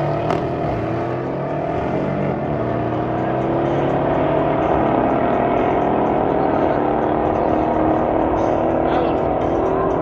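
Mercedes-AMG 5.5-litre twin-turbo V8 running, its engine note rising slowly and steadily.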